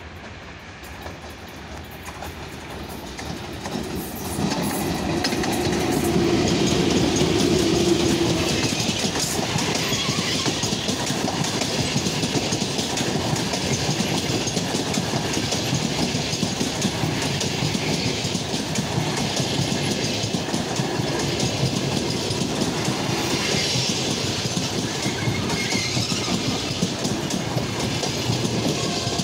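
VL10 electric locomotive hauling a passenger train past close by. The noise builds over the first four seconds as the locomotive arrives, then the coaches roll steadily past with wheels clattering over the rail joints.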